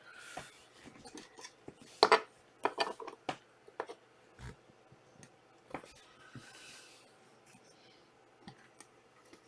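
Trading cards being handled on a table: scattered light clicks and taps, with two brief rustles of cards sliding, one at the start and one about six seconds in.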